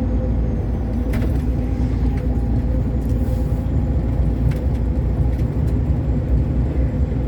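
Truck engine and road noise heard from inside the cab while driving on the highway: a steady low drone with a few faint clicks and rattles.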